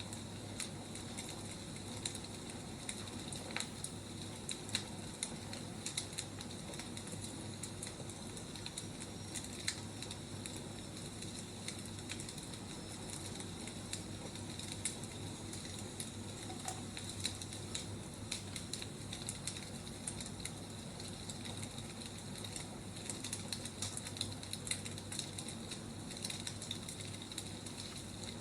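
Burning firewood crackling, with irregular sharp pops over a steady soft hiss.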